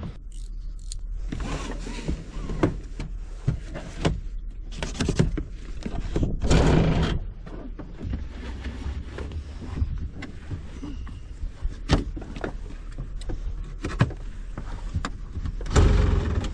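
Wind rumbling on the microphone, with scattered knocks, clicks and rustling from hands handling things, and a longer rasping scrape about six and a half seconds in.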